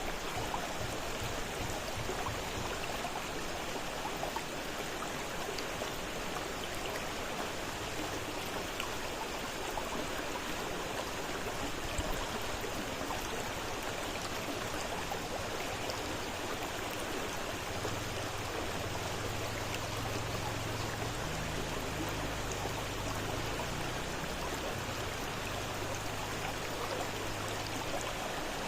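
Fast-flowing river water rushing steadily, with a faint low hum coming in about two-thirds of the way through.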